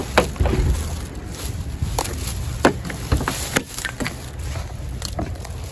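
Scattered sharp clicks and knocks from handling, over a low wind rumble on the microphone, as a person gets into a car.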